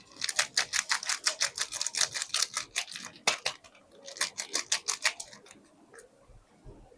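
Soap packaging being handled and opened: quick runs of crisp crackles and clicks, two bursts about a second apart, then a few quieter clicks.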